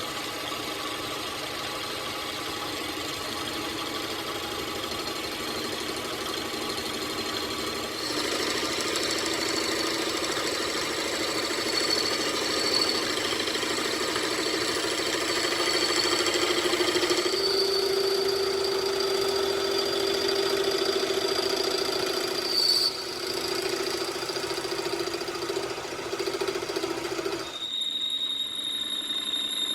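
Machinery running steadily with a constant hum and whine, changing abruptly in pitch and character several times.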